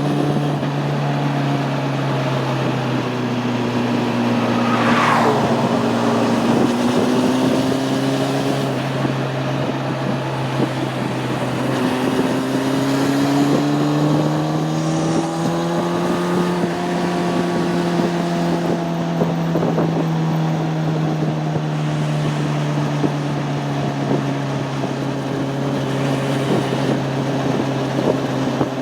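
Honda CB600F Hornet's inline-four engine running under way, its note rising and falling with the throttle, with wind rushing over the microphone. A brief falling whine cuts across about five seconds in.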